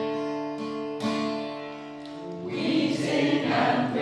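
Song introduction on acoustic guitar: a chord strummed and left ringing, a second strummed chord about a second in, then a group of singers comes in about two and a half seconds in and grows louder.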